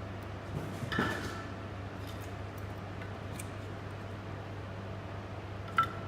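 Two metallic clinks at a wood-burning fireplace, one about a second in with a short ring and a sharper one near the end, over a steady low hum.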